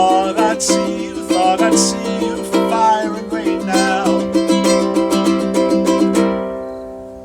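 Ukulele strummed through the closing bars of a song, the strums coming quick and even, then stopping about six seconds in and leaving the last chord to ring out and fade.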